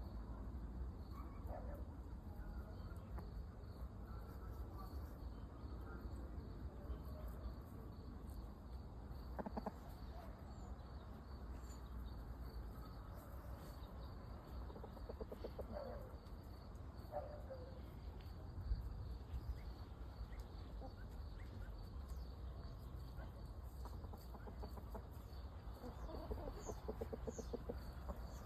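Chickens clucking softly now and then, a few short calls spread through the stretch, over a steady low background rumble.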